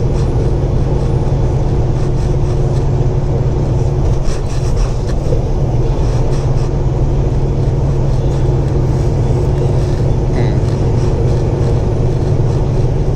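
Semi truck's diesel engine running steadily along with road noise, heard from inside the cab.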